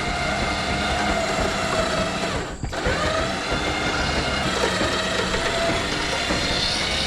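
Winch on the trailer deck running under load as it pulls the Allis-Chalmers WD tractor up onto the trailer: a steady motor whine with a brief break about two and a half seconds in.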